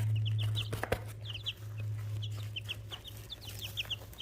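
Several 19-day-old chicks peeping in short, high, slightly falling notes, several a second, over a steady low hum.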